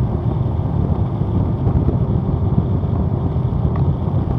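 Motorcycle engine and road noise at a steady cruise: a continuous low rumble with no change in pitch or level.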